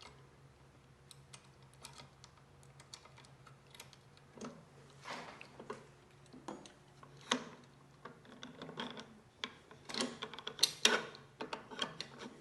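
Scattered small metallic clicks and taps of hand-assembly work, with parts and fasteners being handled. The clicks come more often and louder in the last few seconds.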